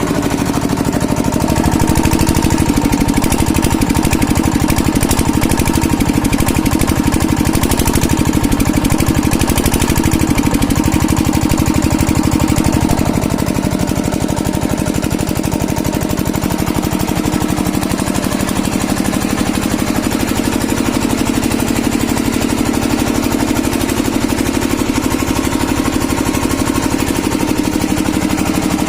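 Kirloskar diesel engine running steadily with a rapid, even chugging beat. It eases slightly about halfway through.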